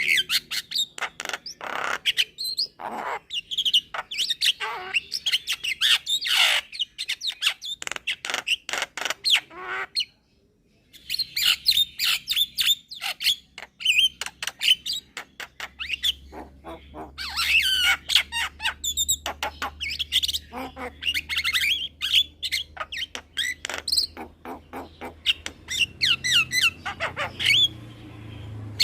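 Young Javan myna (jalak kebo) calling in quick, continuous runs of chirps, whistles and harsh squawks. The calls break off for about a second around ten seconds in.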